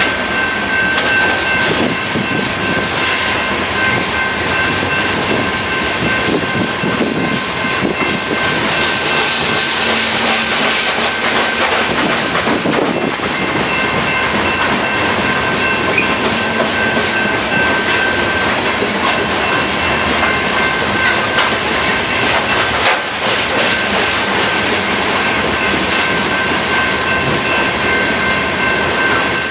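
Freight cars of a unit frac sand train rolling past at steady speed. The wheels click over the rail joints under a steady, high, ringing wheel squeal.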